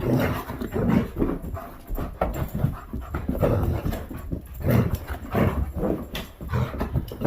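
German Shepherd puppy vocalizing in a string of short, irregular sounds, with some panting, as it resists being taken for a bath.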